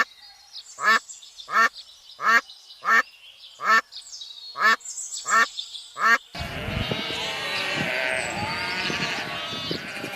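A duck quacking in a steady series of about nine loud calls, roughly one every 0.7 s. About six seconds in, this cuts abruptly to a dense din of many animals calling at once, like a flock bleating.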